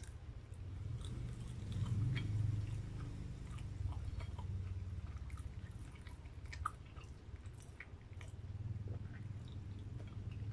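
A person chewing and biting grilled barbecue skewer food, starting with a bite of a skewered hotdog, with many small mouth clicks throughout. The chewing is loudest about two seconds in.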